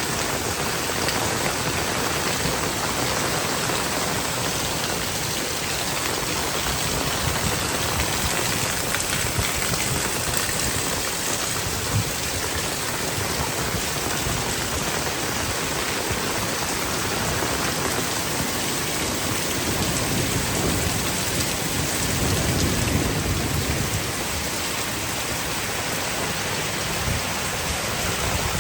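Heavy rain pouring steadily, with a single sharp knock about twelve seconds in and a brief louder low swell a little past two-thirds through.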